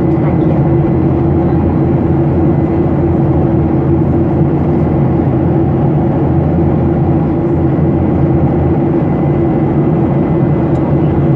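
Steady drone of a Ryanair Boeing 737-800's CFM56 jet engines and rushing air, heard inside the cabin as the airliner climbs after takeoff. The noise is loud and even, with a deep hum and a faint high whine above it.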